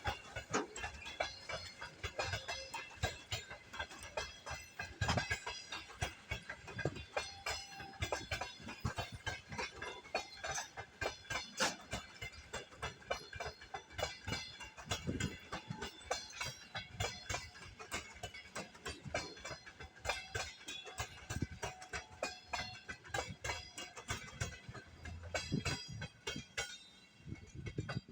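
Passenger train hauled by an EP20 electric locomotive pulling out of a station, its wheels clattering over rail joints and points in rapid, irregular clicks, with high-pitched ringing tones over them.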